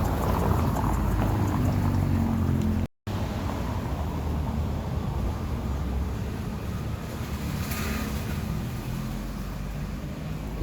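Street traffic: a vehicle engine running nearby over a steady low rumble of wind on the microphone. The sound cuts out completely for a moment about three seconds in.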